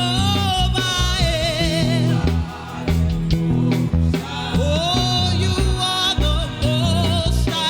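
Live gospel worship music: a singer with vibrato over bass guitar, drums and keyboard.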